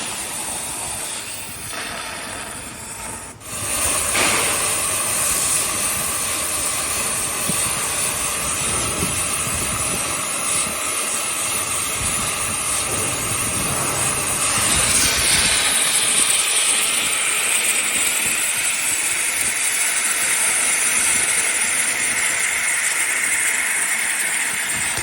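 CNC oxy-fuel cutting torch hissing steadily as its oxygen jet cuts through thick steel plate. The hiss drops out for a moment a little over three seconds in, then resumes and grows brighter about midway.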